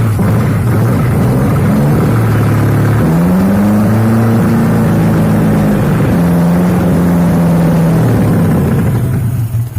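Car engine running under load while driving, its pitch stepping up and down as it accelerates and changes gear. It fades out near the end.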